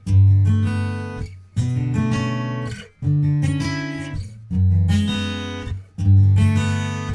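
Acoustic guitar strumming a folk song's chords with no singing: a chord struck about every second and a half, each left to ring and fade before the next.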